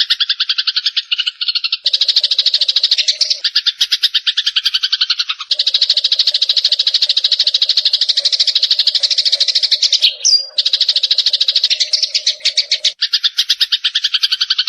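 Songbird-training recording of cililin song combined with fighting Eurasian tree sparrow calls: long, very rapid rattling trills in phrases broken by short pauses, with a brief upswept chirp about ten seconds in.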